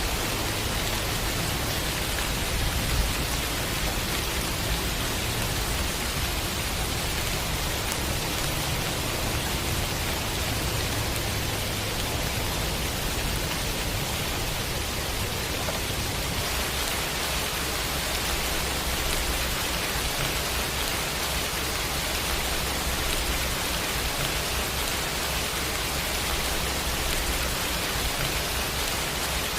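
Steady rain with a low rumble beneath it: an even, unbroken hiss of falling rain. The texture shifts slightly a little over halfway through.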